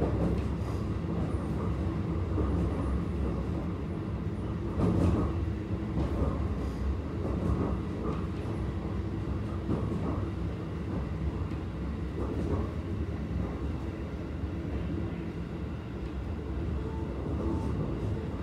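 Keikyu 1000 series stainless-steel commuter train running at speed, heard inside the passenger car: a steady rumble with a few louder knocks about five, seven, ten and twelve seconds in.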